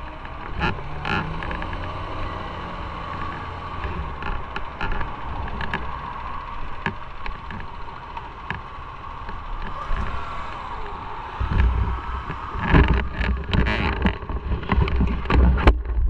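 Motorcycle running on the road with a steady hum, and wind rumbling on the microphone. The wind grows heavier about three-quarters of the way through.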